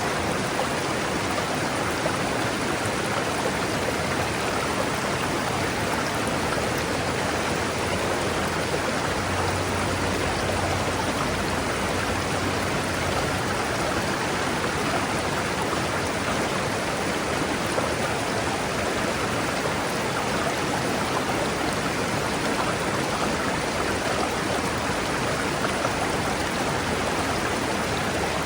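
A forest river rushing steadily over rocks, an even wash of water noise with no change in level.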